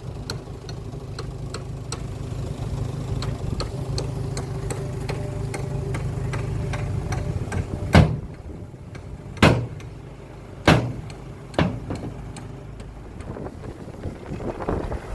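Heavy diesel engine of a truck or bulldozer running steadily with a regular light ticking, then four loud sharp thumps in the second half, after which the engine sound is lower.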